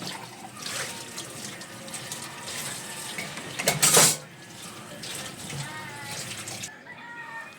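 Kitchen tap running while dishes are rinsed in the sink, with one loud splash or clatter about four seconds in; the running water stops near the end.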